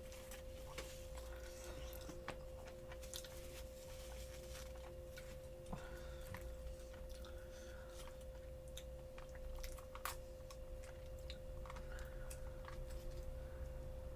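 Close-miked chewing and biting of fried chicken, with scattered short crunches and clicks throughout.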